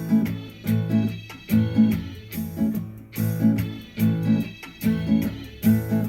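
Guitar strumming open chords in a reggae off-beat pattern: quick down-up strokes between the counted beats, at a steady tempo.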